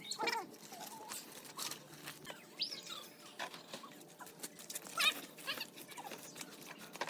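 Scattered short animal calls, a few high gliding cries spread over several seconds, among light clicks and knocks.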